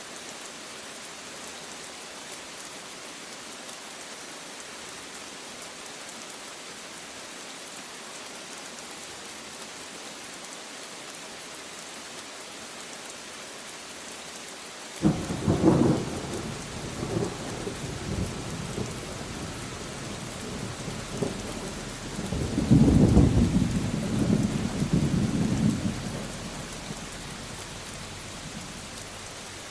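Steady rain hissing. About halfway through, thunder breaks with a sudden crack and rolling rumbles, then a second long rumble a few seconds later. It dies away back to the rain near the end.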